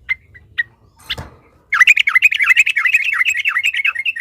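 Yellow-vented bulbul (trucukan) singing: a few short chirps and a knock, then from just under two seconds in a loud, fast, bubbling run of chattering notes.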